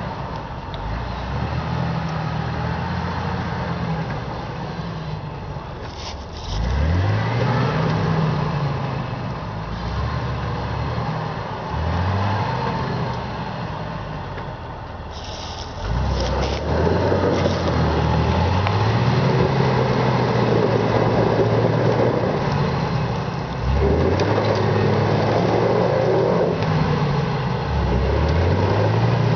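Jeep engine revving as it works through a mud hole. The engine note climbs sharply several times and then holds between throttle bursts.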